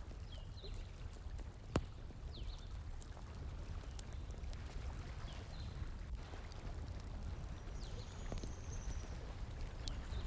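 Wood fire crackling, with scattered small ticks and a few sharp pops, over the steady rush of flowing water. A few faint, short high chirps sound now and then.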